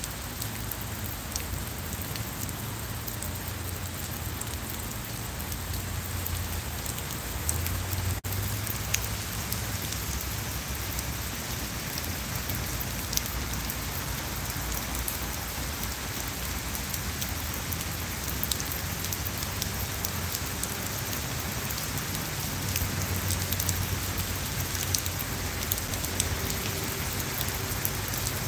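Steady rain falling on paving and a lawn: an even hiss, with many close drops ticking sharply over it.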